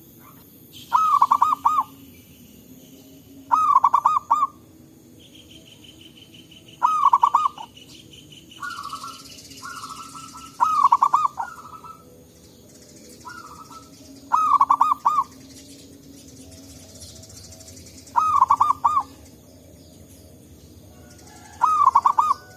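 Zebra dove (perkutut) song: seven loud staccato cooing phrases, each a quick run of notes about a second long, repeated every three to four seconds, with softer calls from another dove in between. A steady higher buzz runs in the background for a few seconds in the first half.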